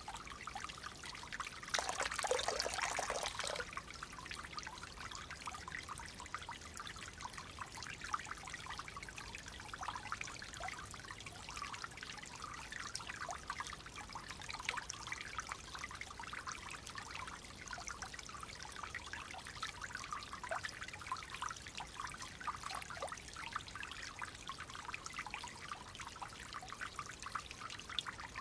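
Clear running water trickling and babbling steadily, with a dense patter of small splashes. About two seconds in, a louder rush lasts for a second and a half.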